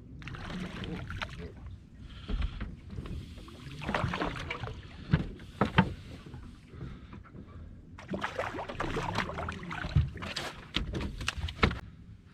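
Water sloshing and splashing around a small fishing boat, with several sharp knocks against the boat.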